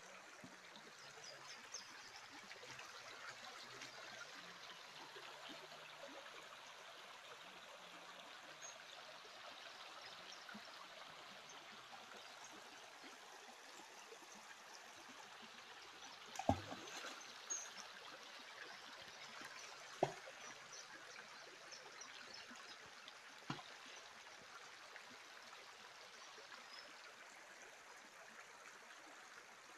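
Faint, steady flowing water of a stream. A few sharp knocks stand out in the second half.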